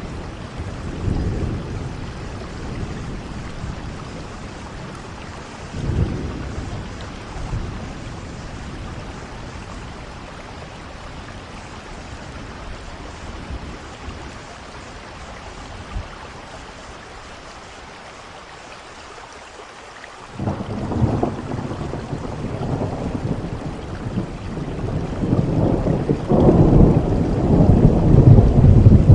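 Steady rain with thunder rumbling in a thunderstorm: a couple of short low rumbles early on, a calmer stretch of rain alone, then a long roll of thunder building from about two-thirds of the way in to a loud peak near the end.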